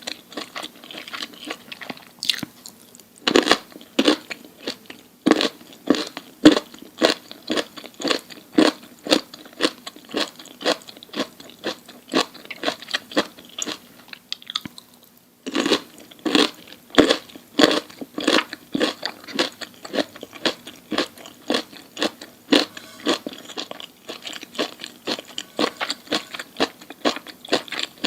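Close-miked mouth chewing crunchy food: a steady run of loud crunches at about two a second, with a short pause about halfway through before the chewing starts again.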